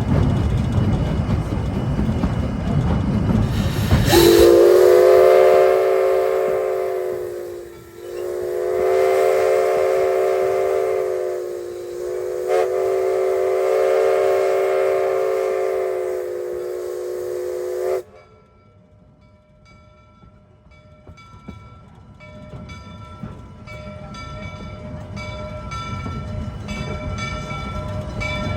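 Narrow-gauge locomotive's chime whistle sounding a loud chord of several notes. It is held in long blasts with two brief breaks and cuts off sharply about two-thirds of the way through. It follows a low rumble of the train running.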